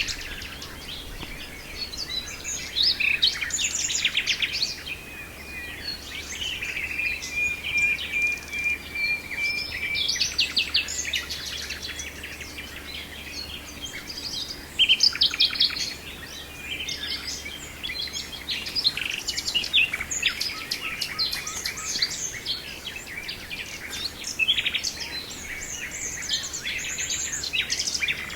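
Nightingale singing: a varied run of fast rattling note series, trills and whistles, including one long, even trill a few seconds in.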